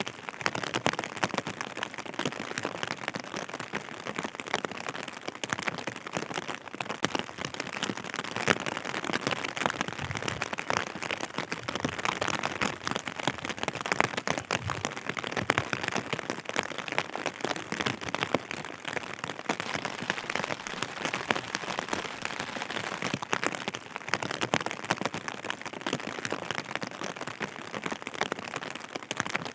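Steady rain, with a dense patter of drops striking a surface.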